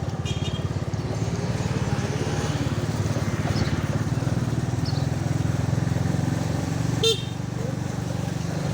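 A small motorcycle engine running steadily while riding. About seven seconds in there is one short, high beep.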